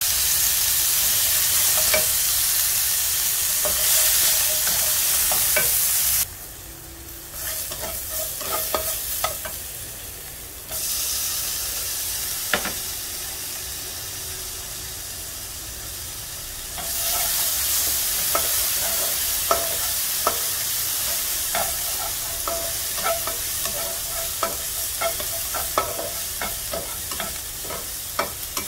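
Food frying in a little oil in a nonstick pan, a steady sizzle, with a plastic spatula scraping and tapping the pan as the pieces are stirred. The sizzle drops abruptly about six seconds in and grows louder again later.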